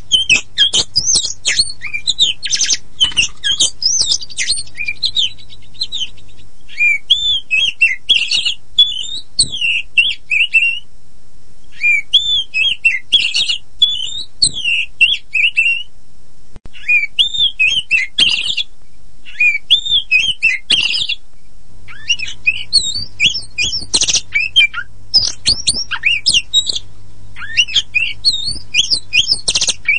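Oriental magpie-robin (kacer poci) singing: a rapid run of varied whistles, trills and chattering notes, broken by a few short pauses.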